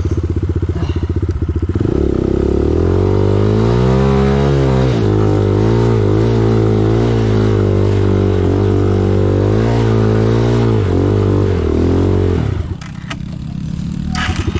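Dirt bike engine held at high revs for about ten seconds, the revs wavering up and down under load. Near the end the revs drop suddenly back to a low idle, with a few sharp clicks.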